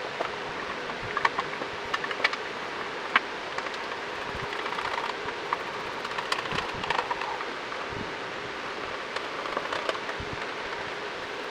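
Scattered light clicks, taps and knocks of hand work on a motorcycle's front cowl and headlight plastics and fittings, over a steady background hiss.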